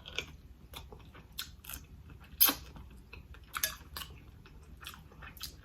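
Close-miked eating noises: chewing and lip smacking in irregular short, wet clicks, the loudest about two and a half seconds in.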